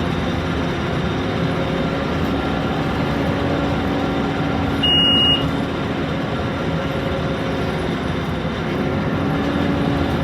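Scania K230UB Omnilink bus's five-cylinder diesel engine running steadily under way, with road noise. A short high beep sounds once about five seconds in.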